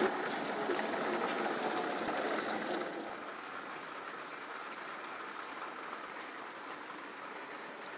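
Steady rain falling, an even hiss, louder for about the first three seconds and then quieter.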